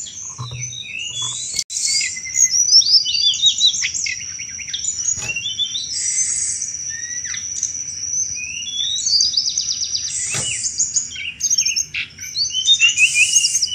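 A tledekan gunung singing its chattering 'cetrekan' song: quick runs of short, sharp chirps and fast trills, repeated phrase after phrase. A thin steady high whine runs underneath, and there are a few sharp clicks.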